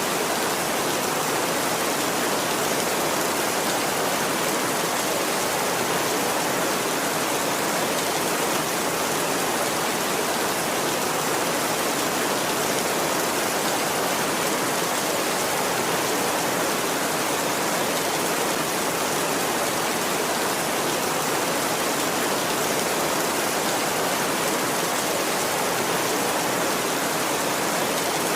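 Heavy rain falling as a steady, even hiss, with no thunder and no change in level.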